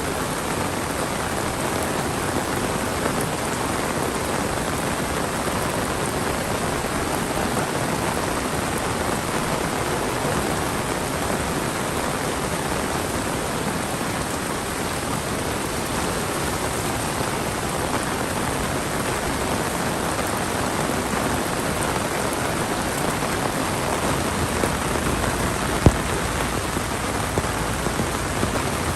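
Heavy monsoon rain falling steadily, a dense even hiss of drops hitting the ground, with one sharp knock near the end.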